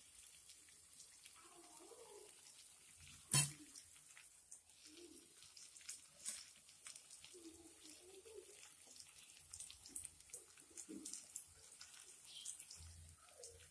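Faint frying sizzle of onions in oil in a metal kadai, with soft scraping and one sharp clink of metal on metal about three seconds in.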